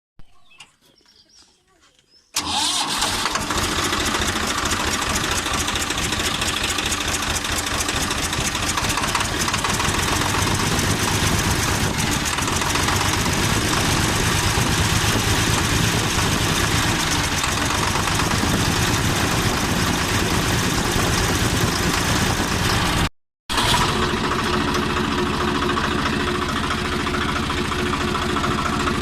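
Swaraj 855 FE tractor's three-cylinder diesel engine running steadily at idle, coming in abruptly about two seconds in and dropping out for a moment near the end. The engine is being run after its broken rocker-arm bolt was replaced.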